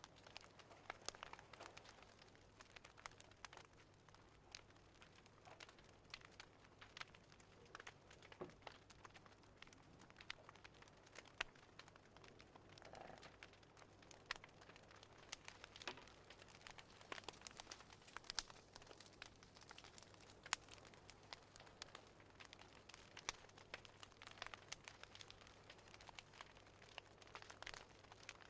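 Faint wood fire crackling, with irregular small pops and snaps, over a low steady hum.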